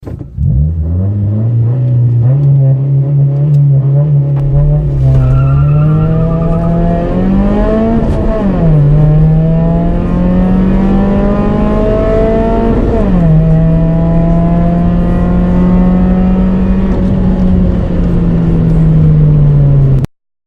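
Car engine accelerating at full throttle. The revs hold fairly steady for the first few seconds, then climb, with two sudden drops in pitch at gear changes about eight and thirteen seconds in, before the sound cuts off abruptly near the end.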